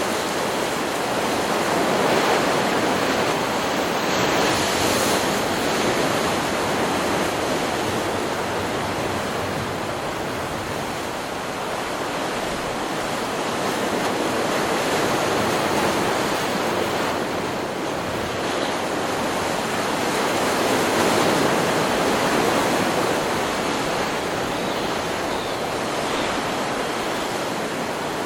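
Ocean surf: waves breaking and washing up the shore in a continuous rush that swells and eases every several seconds.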